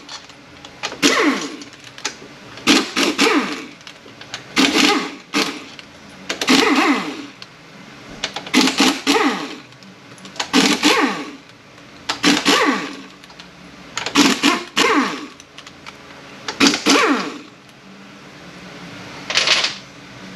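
An impact wrench on transmission housing bolts in about ten short bursts, roughly one every two seconds, each with a whirring pitch that bends. This is the sound of the 13 mm and 17 mm bolts being run out one after another.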